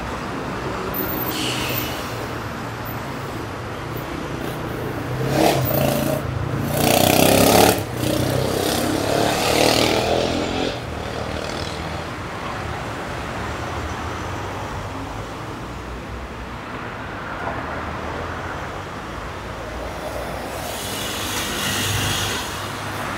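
Electric commuter train sounds: a steady low running hum, with a louder stretch of mixed noise and tones from about five to ten seconds in, and a slow swell near the end.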